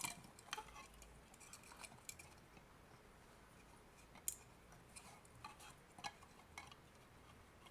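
Faint, scattered small clicks and taps of hand-working small parts: the wire being fed back into the opened AC adapter's plastic housing.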